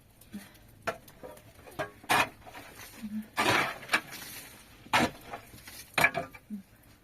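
Irregular sharp knocks and clattering scrapes, like household objects or utensils being handled, with a longer rasping scrape a little past halfway.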